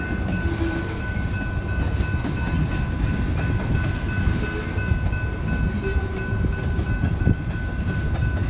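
Slow freight train of loaded tank cars rolling past, its steel wheels on the rails making a steady low rumble with occasional knocks. A steady high ringing tone is held throughout.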